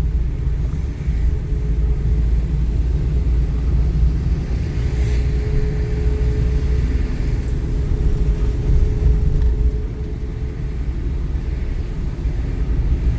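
Gusty typhoon wind buffeting the microphone as a loud, uneven low rumble, with a faint steady tone for a few seconds in the middle.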